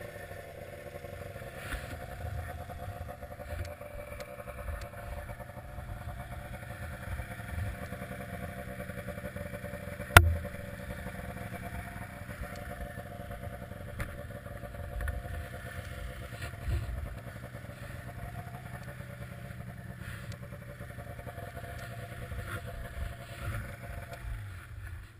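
Arctic Cat ZR800 snowmobile's two-stroke twin engine running at a steady speed on the trail. A single sharp knock stands out about ten seconds in. The engine note fades near the end.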